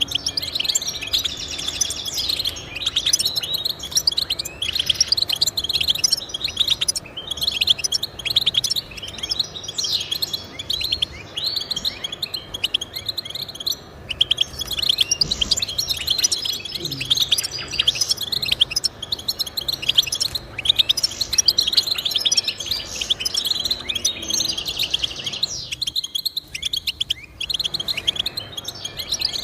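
Goldfinch singing: a fast, continuous twittering song of rapid high notes, pausing briefly a few times, with a longer pause near the end.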